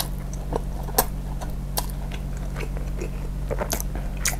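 Close-miked chewing of a mouthful of beef tendon meatball (bakso urat) in chili sauce: irregular sharp, wet mouth clicks and squelches.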